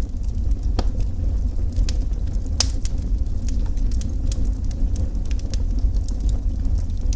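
Wood fire burning with a steady low rumble and scattered sharp crackles and pops, the loudest pop about two and a half seconds in.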